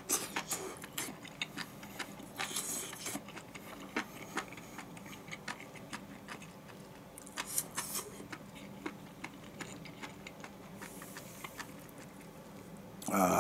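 A person chewing a mouthful of stir-fried mushrooms and fried tofu, with small clicks of wooden chopsticks against the bowl; a short louder sound near the end.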